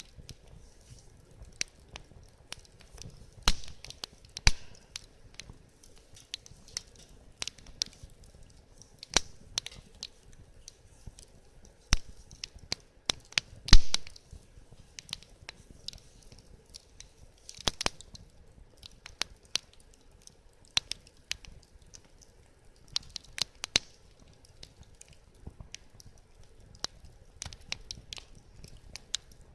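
Wood fire crackling: irregular sharp snaps and pops of burning wood, with a few louder pops, the loudest about fourteen seconds in.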